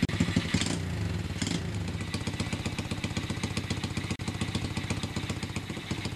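Lifan 125 cc single-cylinder four-stroke engine in a 1971 Honda CT70 mini bike running, its firing louder for about the first second before it settles to a steady idle.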